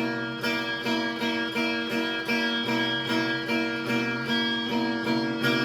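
Acoustic guitar playing a steady picked pattern of chords, a note about every half second.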